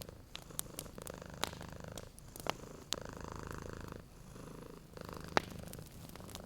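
Domestic cat purring steadily, swelling and easing with its breaths, while a wood fire crackles with scattered sharp pops; the loudest pop comes about five seconds in.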